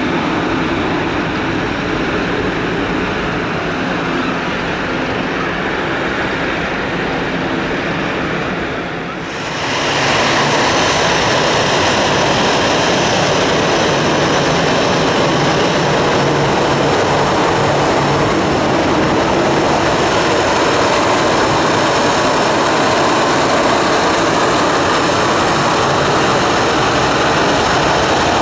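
Jet airliner engines running steadily at taxi power close by. About a third of the way in the sound cuts to a second taxiing airliner, louder, with a steady high whine over the engine noise.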